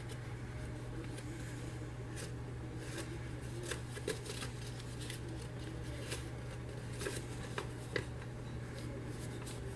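A sheet of paper being folded and creased by hand: faint scattered crinkles and rustles over a steady low hum.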